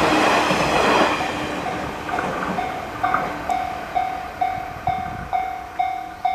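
Shinano Railway 115-series electric train running past and receding; its loud rolling noise drops away about a second in. Then an electronic level-crossing bell rings in even strokes, a little over two a second.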